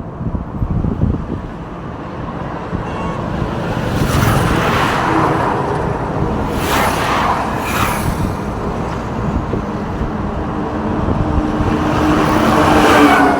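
Road traffic: several vehicles pass one after another, each a swelling rush of engine and tyre noise, with a low steady engine note growing near the end as a heavier vehicle approaches. Wind buffets the microphone at the start.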